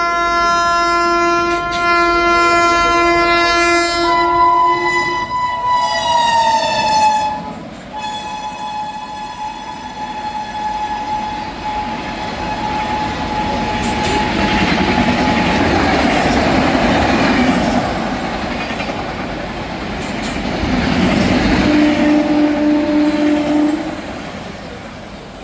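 An Indian Railways electric locomotive sounding a long horn blast whose pitch drops about six or seven seconds in as the train passes. A heavy rushing and wheel-on-rail rumble of the fast train going by follows, with another short horn note near the end.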